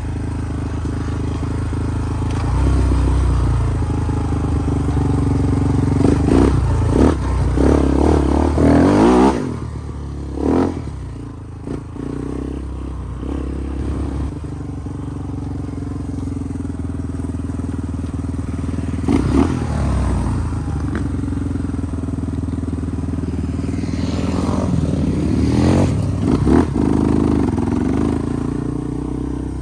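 Off-road dirt bike or ATV engine running, with several louder surges of throttle: a cluster about a quarter of the way in, one past the middle and another near the end.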